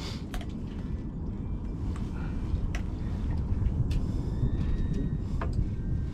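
Steady low rumble of wind and boat noise, with scattered small clicks and taps.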